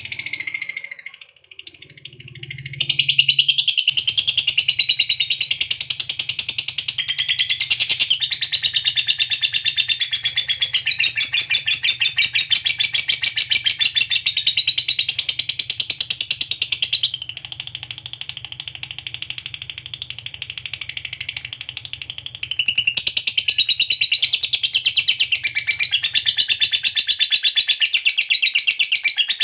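Lovebird's long ngekek chatter: a continuous, very fast run of high-pitched notes. It gets going about three seconds in, drops in loudness for a few seconds past the middle and comes back louder near the end.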